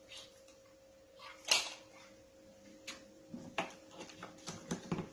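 Handling noise from a Ryu RVC 15 wet/dry vacuum cleaner being opened up with its motor off: a short scrape about one and a half seconds in, then a run of light clicks and knocks from the plastic tank and lid.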